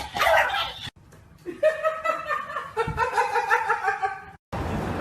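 A person laughing in quick repeated pulses, starting about one and a half seconds in and cut off abruptly near the end.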